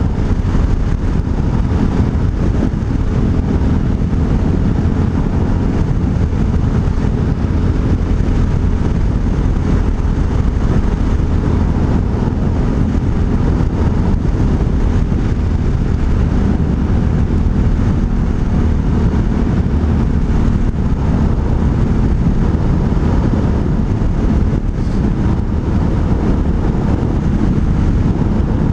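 Hawk 250 enduro motorcycle's single-cylinder four-stroke engine and aftermarket exhaust running low and steady while coasting in fifth gear, with road and wind rush over it. There is no popping on the overrun, a sign that the 110 main jet has the mixture right.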